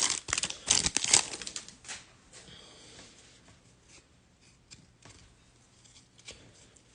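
Crinkling and rustling as trading cards and their wrapper are handled, dying away after about two seconds into a few faint clicks of cards being moved.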